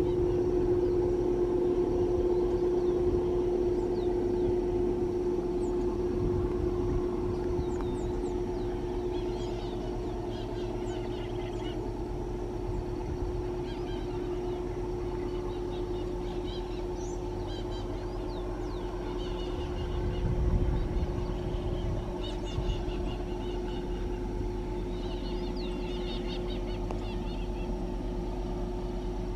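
Two GE AC44i diesel-electric locomotives working under heavy load up a steep grade: a steady drone with one held tone over a low rumble, briefly louder about two-thirds in. Birds chirp over it from about a third of the way in.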